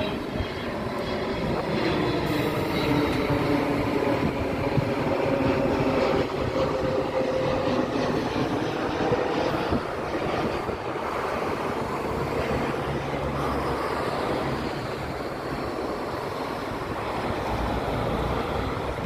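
Airliner landing: a steady jet-engine roar, with a whine that falls slowly in pitch over the first several seconds.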